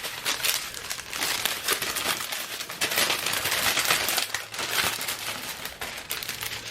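Thin plastic packaging crinkling and crackling as it is handled, a continuous run of small irregular crackles.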